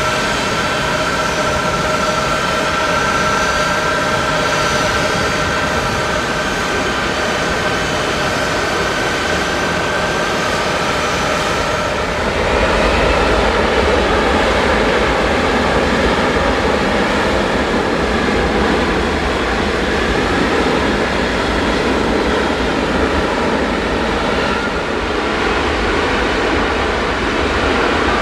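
Boeing C-17's jet engines running with a steady whine over a broad rush; about twelve seconds in the rush swells louder and fuller, the engines spooling up.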